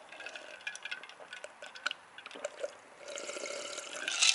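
Light metallic clicks and clinks of small parts being handled on a workbench, followed by a steady hiss that builds from about three seconds in.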